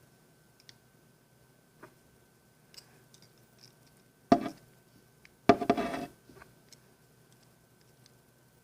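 Thin wire being bent and handled: scattered light clicks, then two short scraping sounds, the second longer and rougher, a little past the middle.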